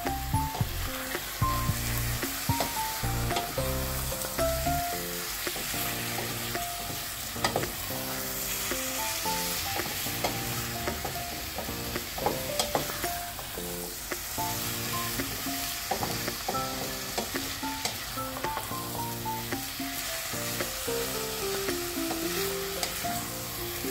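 Chicken pieces sizzling as they fry in a stainless steel saucepan, stirred with a wooden spatula that knocks and scrapes against the pan. Light background music with a gentle melody plays along.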